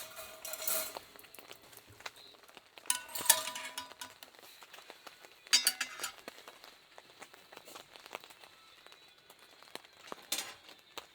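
Metal dishes and utensils clinking and knocking. There are scattered light knocks and a few louder ringing clinks, about three and five and a half seconds in.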